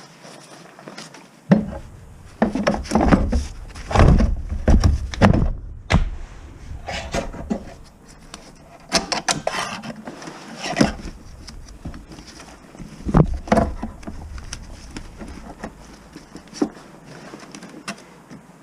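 Irregular knocks, clunks and rattles from hands working on a vehicle with tools and parts. They are heaviest in the first few seconds, with sharper single knocks around the middle and later on.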